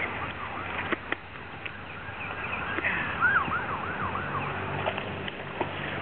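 A bird calling: a quick run of about five looping whistled notes a little over three seconds in, with shorter high chirps just before, over steady background noise. Two sharp clicks sound about a second in.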